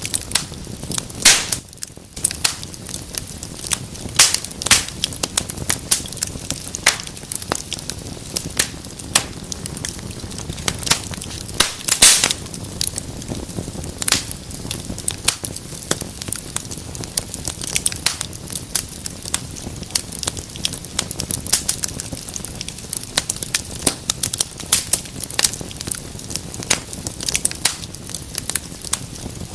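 Wood fire in a fireplace crackling steadily, with frequent sharp pops over a low hiss; a louder pop comes about a second and a half in and another around twelve seconds.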